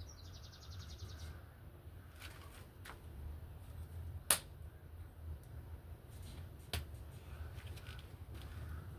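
A few sharp clicks and taps over a low hum, the loudest about four seconds in. A fast high chirping trill sounds at the start, and a crow begins cawing repeatedly near the end.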